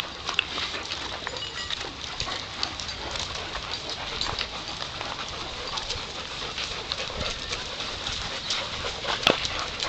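A dog moving about close by, with many small irregular clicks and snuffling noises. There is a sharp click about nine seconds in.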